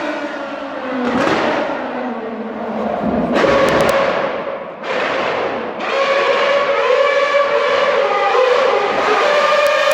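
Formula 1 car engine running at high revs, its pitch falling and rising, broken by a few sudden changes where the sound cuts from one pass to another.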